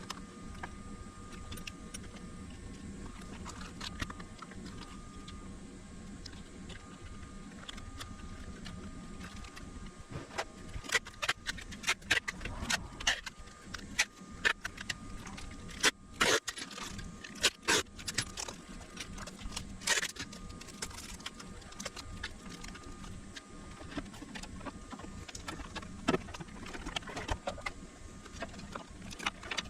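A run of sharp clicks and metallic clinks, bunched in the middle of the stretch with a few more later, over a steady low hum with a thin faint whine.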